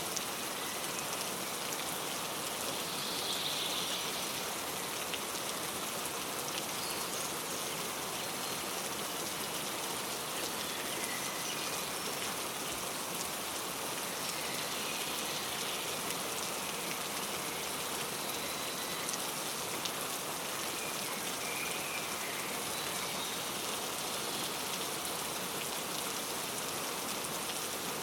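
Steady rain pattering, an even continuous hiss of drops, with a few faint bird chirps now and then.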